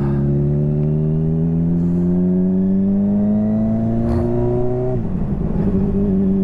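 Honda CBR motorcycle engine accelerating: its pitch rises steadily, drops sharply at an upshift about five seconds in, then climbs again in the next gear.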